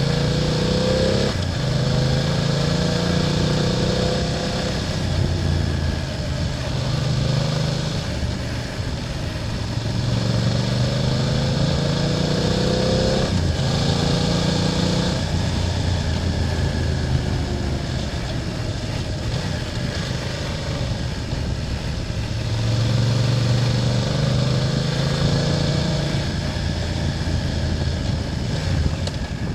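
BMW F800GS motorcycle's parallel-twin engine pulling along the road, its pitch climbing under throttle and dropping at gear changes several times, with a longer climb near the end.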